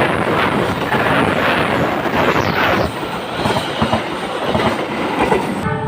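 A train passing close by, its wheels clattering over the rails in a loud, continuous rush. The sound changes abruptly just before the end.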